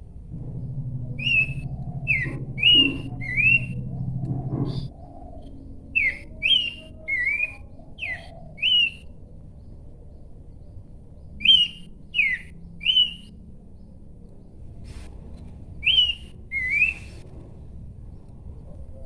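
A pelanduk semak babbler singing: four phrases of three to four short, clear whistled notes, each slurring up or down, the phrases repeated every few seconds. A low steady hum sounds under the first phrase and stops about five seconds in.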